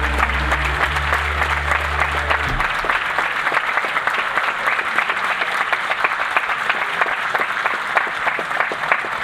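Audience applauding, over the music's last held low note, which stops about two and a half seconds in.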